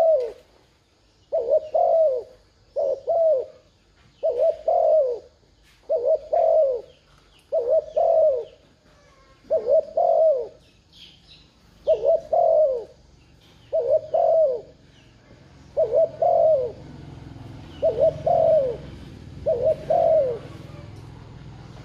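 Spotted dove cooing over and over, a short phrase of two or three coos about every second and a half: the 'thúc gù' cooing played as a lure to call wild doves. A low steady rumble comes in underneath about two-thirds of the way through.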